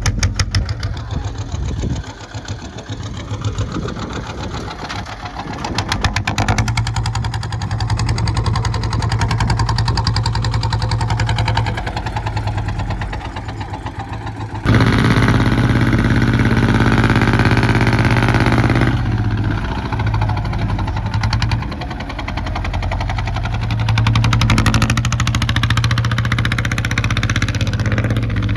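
Kubota ZT 155 single-cylinder diesel engine running steadily, growing louder for about four seconds around the middle as it is revved up, then settling back.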